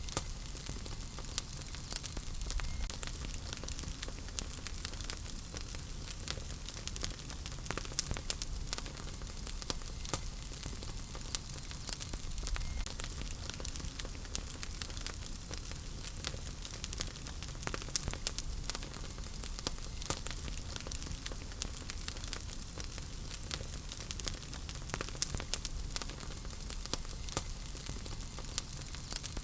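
Wood fire crackling in a fireplace: frequent irregular sharp pops and snaps over a steady soft hiss of the flames.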